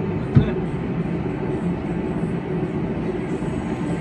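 Chevy Trax engine idling, heard from inside the cabin as a steady low hum, with a single sharp knock about half a second in.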